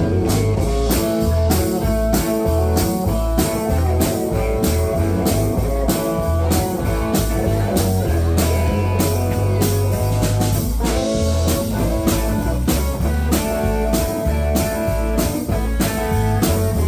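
Live band playing an instrumental break in a country-rock song: guitar lines over bass and a steady drum beat.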